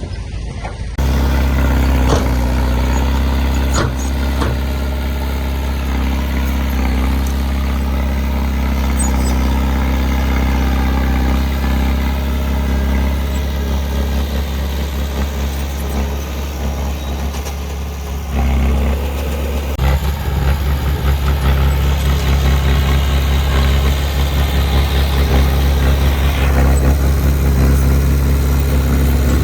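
Heavy diesel engine of earthmoving equipment running steadily with a low, even hum. It starts abruptly about a second in, and its note changes briefly about two-thirds of the way through.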